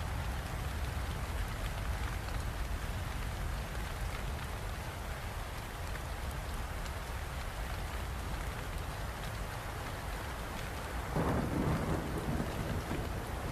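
Steady heavy rain over a continuous low rumble of thunder, with a louder roll of thunder breaking in about eleven seconds in.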